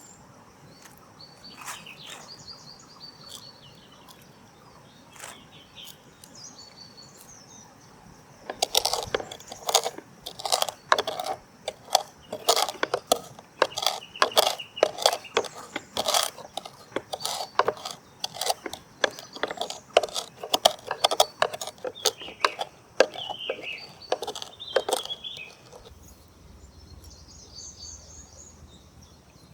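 Birds chirping, then a long, irregular run of sharp clicks and knocks, two or three a second, from about a third of the way in until near the end, with the birds still chirping under them.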